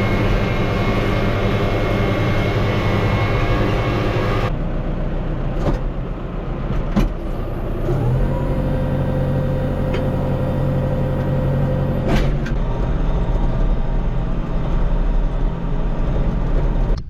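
A vehicle engine running steadily, its pitch stepping up about eight seconds in, with a few sharp clicks over it.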